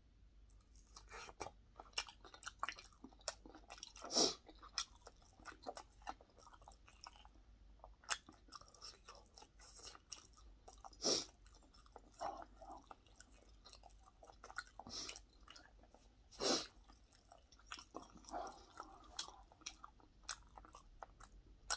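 A person biting and chewing crisp fried pork cutlet, a run of short crunchy mouth noises, the loudest about 4, 11 and 16 seconds in.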